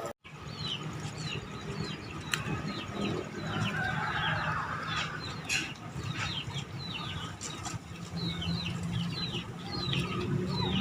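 Birds chirping in many short, quick falling notes, with chickens clucking among them, over a low steady hum.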